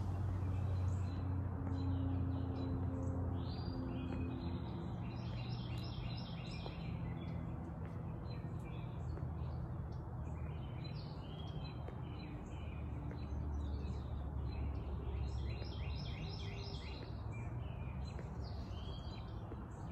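Birds singing in two bouts of rapid, repeated high chirps, over a steady low hum.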